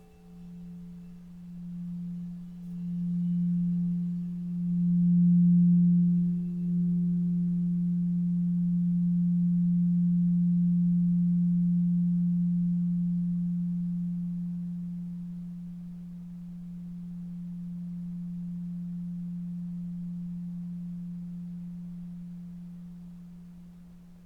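A single low, pure sustained tone from a sound healing instrument. It swells in several waves over the first few seconds, then holds steady and slowly fades. Fainter, higher overtones die away early on.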